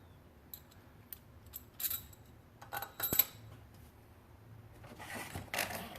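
Scattered metal clinks and light taps of cylinder-head bolts and their washers being handled and set into the head of a Toyota 2ZR-FE engine, the sharpest clink about three seconds in.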